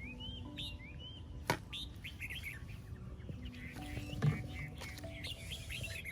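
Small birds chirping over and over in quick, short calls, with soft held background-music notes underneath. A sharp knock comes about a second and a half in, and a louder dull thump about four seconds in.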